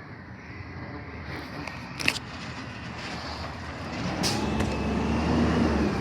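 A truck's engine running, getting louder from about four seconds in as it comes closer, with a single sharp clank about two seconds in.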